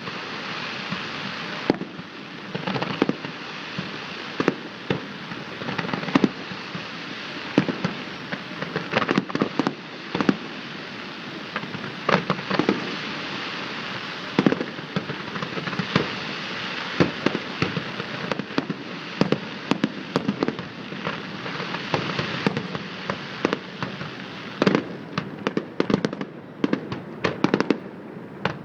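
A public fireworks display: shells bursting in irregular volleys of bangs and crackles, with crackling stars over a steady rumble-hiss of continuous bursts.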